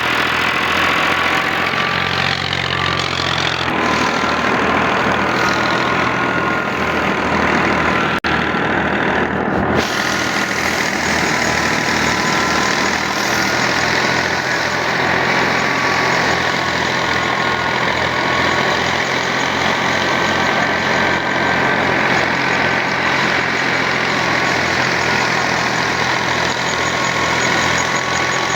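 Al-Ghazi tractor's diesel engine running steadily, driving threshing machinery, with a steady high whine over the engine's low beat.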